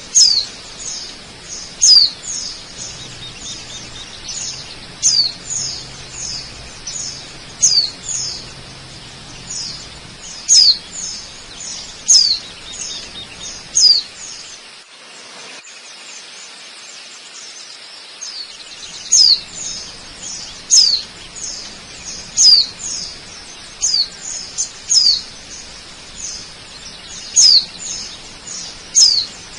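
A bird calls over and over with short, sharp, falling chirps, about one every second or two, pausing for a few seconds midway. A faint steady hiss runs underneath.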